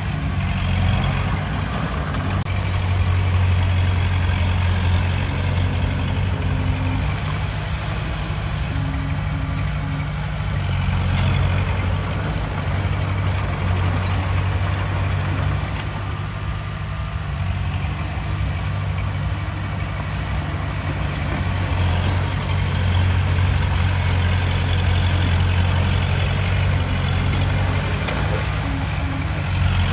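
Diesel engine of heavy earthmoving machinery running under load. Its deep hum strengthens and eases every few seconds.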